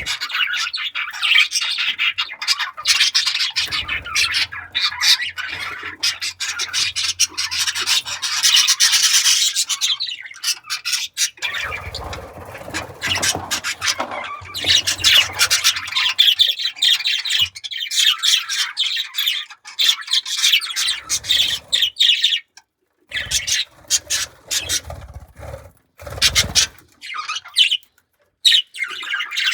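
Budgerigars chattering and warbling in a fast, continuous run of chirps and squawks, with scratchy rubbing clicks mixed in, and a few brief pauses near the end.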